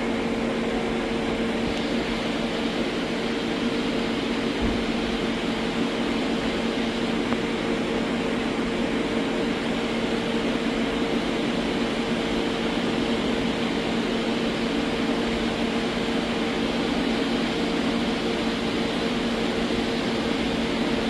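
Leadwell LTC-45CXL CNC lathe running: a steady mechanical hum with a constant low tone and its overtone, unchanging throughout.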